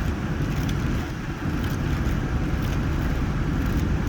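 Steady low rumble of a vehicle running, with faint irregular rattles on top.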